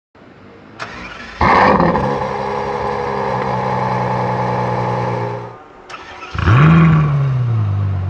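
Ferrari F12 Berlinetta's V12 engine being started: it catches with a brief rev and settles to a steady idle. About five and a half seconds in it cuts out, then is started again, flaring up and falling back to idle.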